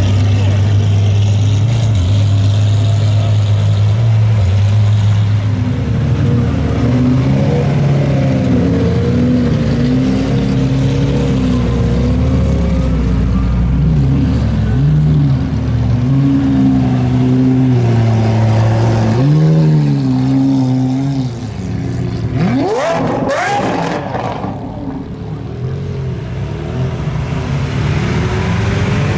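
Supercar engines, Lamborghini Aventadors among them, idling steadily as the cars crawl past, then revving lightly with the pitch swinging up and down. About three-quarters of the way through, one engine revs hard with a steeply rising pitch.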